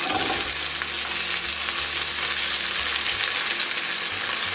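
Thick slices of spring onion frying in olive oil in a frying pan over medium heat, sizzling steadily.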